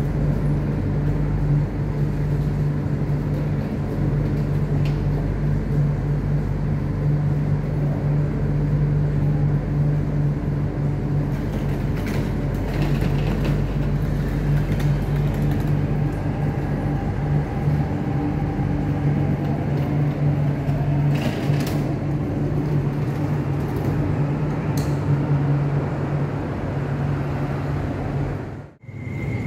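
MTR train departing a station platform: a steady low electric hum, with a fainter whine that rises and falls around the middle. The sound cuts off abruptly for a moment near the end.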